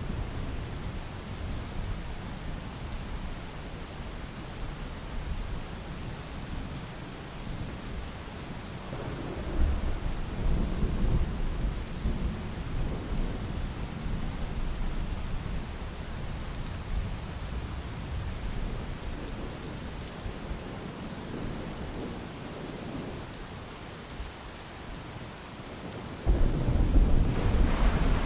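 Steady rain falling, with thunder rumbling low in the background about nine seconds in and a louder, sudden thunder rumble near the end.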